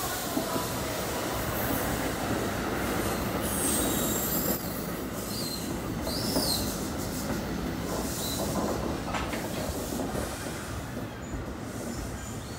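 NJ Transit Multilevel bilevel commuter train rolling along the station platform with a steady rumble of wheels on rail. Its wheels squeal in several high, wavering whines, loudest in the first half.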